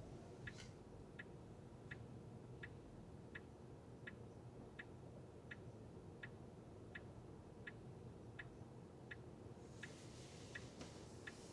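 Car turn-signal indicator clicking steadily, about one click every 0.7 seconds, over a faint low road and engine hum inside the cabin. A brief rush of noise swells up near the end.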